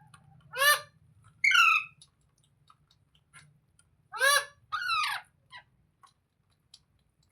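Pet parrot giving two pairs of loud, harsh screeching calls, the second call of each pair sliding down in pitch, with a few faint clicks between.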